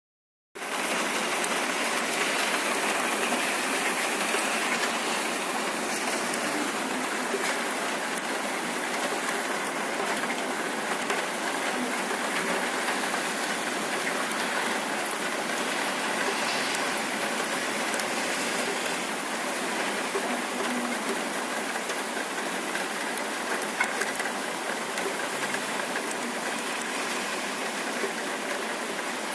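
Summer rain falling steadily, an even, dense hiss that starts about half a second in.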